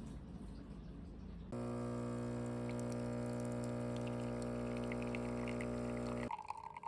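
A coffee machine's pump hums at a steady pitch while liquid pours. The hum starts suddenly about a second and a half in and cuts off near the end.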